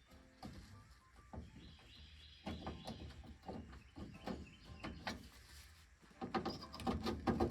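A key being tried and jiggled in the 1950 Chevrolet truck's old ignition lock: scattered metallic clicks and rattles, growing busier near the end, from a key that will not turn.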